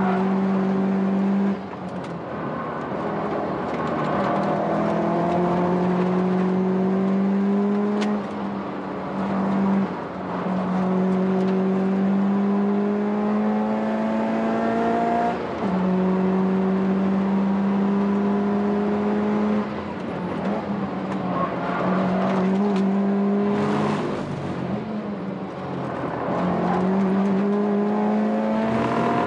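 Turbocharged 2.0-litre flat-four of a turbo-swapped Subaru WRX STI (VAB) at full throttle, heard from inside the cabin. Its note climbs through the revs and drops back at each upshift, several times over.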